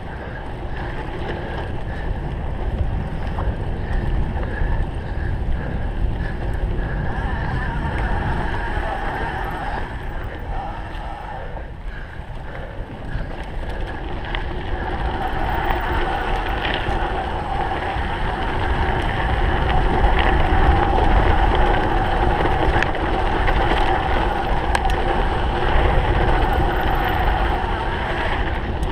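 Wind buffeting the microphone over the rumble of a cyclocross bike's tyres and drivetrain as it is ridden at race pace, growing louder about halfway through.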